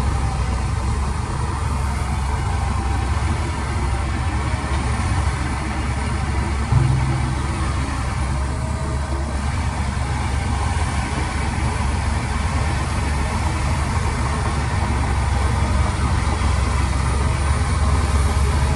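Heavy diesel engine of earthmoving machinery running steadily with a deep, low rumble, with a brief louder surge about seven seconds in.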